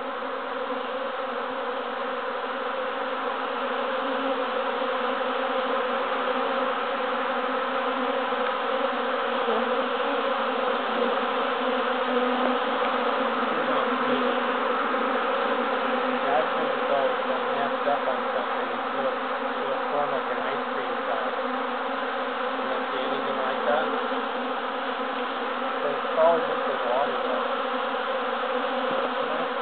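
A large swarm of honey bees buzzing all around: a dense, steady hum of many wingbeats, with single bees flying close past now and then.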